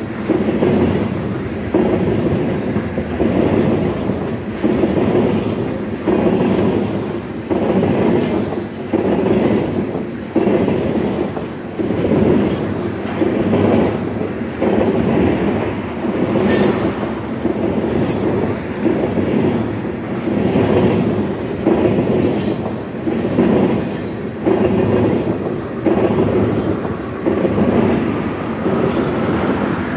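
A freight train of tank cars rolling past at close range. Its wheels clack over the rail joints in a steady repeating rhythm, a beat about every second and a bit.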